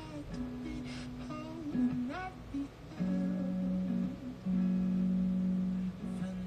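Acoustic guitar playing slow chords, each left to ring for a second or more.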